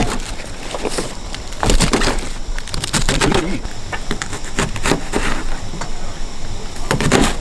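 Irregular crackling and clicking of food stir-frying in a pan, with faint voices underneath.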